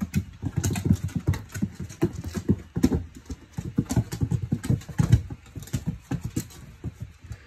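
A cat's paws thumping rapidly and irregularly on a hard plank floor as it runs and pounces after a laser dot, several thuds a second.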